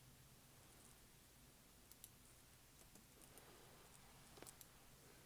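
Near silence: a few faint computer clicks scattered through, with a small cluster about four and a half seconds in, over a low steady hum.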